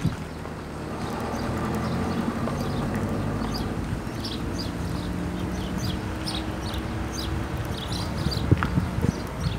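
Birds chirping in short, repeated calls over a low, steady hum, with a sharp thump near the end.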